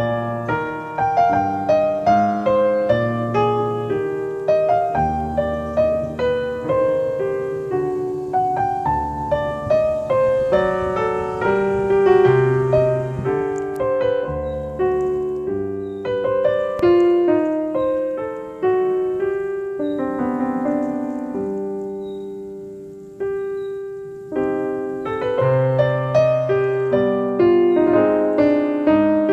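Piano music: a melody of single notes over low bass notes. It thins out and fades about two-thirds of the way through, then picks up again.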